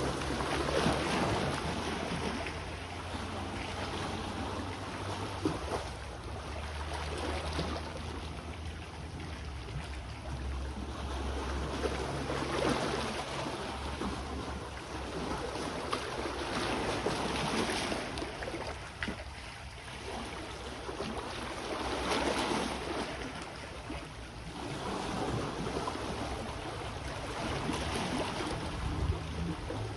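Sea waves washing onto the shore, swelling and falling back about every five seconds, with wind rumbling on the microphone.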